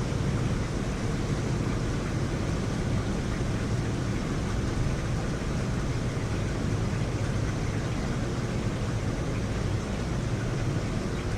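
Heavy rain falling during a thunderstorm: a steady, even rush with a deep low rumble underneath.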